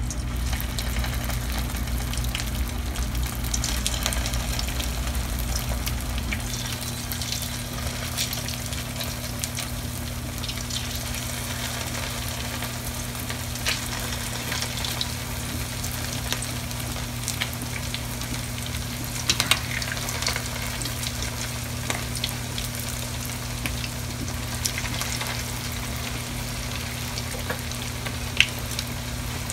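Bluefish cakes frying in about half an inch of hot peanut oil in a skillet, with a steady sizzle dotted with crackles and pops. A few sharp clicks stand out, and a steady low hum runs underneath.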